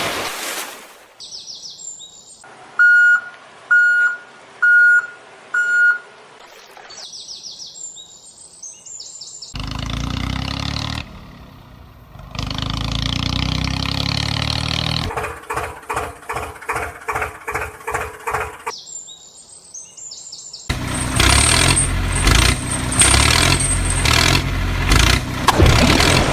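A run of edited-in sound effects: bird chirps, four short evenly spaced beeps, then vehicle engine noise, a fast rhythmic pulsing, and a louder busy stretch of engine sound near the end.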